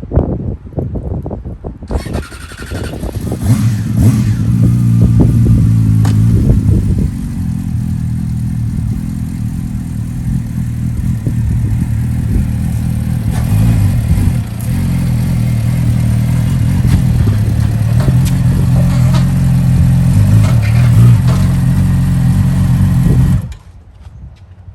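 Yamaha R6 sport-bike's inline-four engine starting up about two seconds in, then running with the revs rising and falling, before cutting off suddenly near the end.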